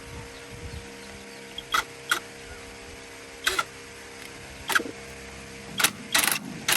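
Hand tools working on tractor brake parts: about half a dozen sharp clicks and knocks at irregular spacing, with a longer rattling cluster near the end, over a steady hum.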